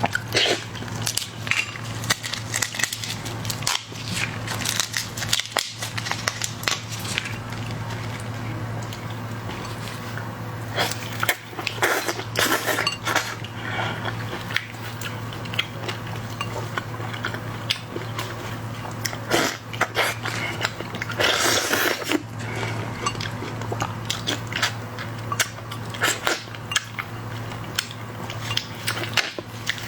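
Close-up eating of shrimp and seafood: repeated cracking and crunching of shells with chewing and small clicks of handling, over a steady low hum.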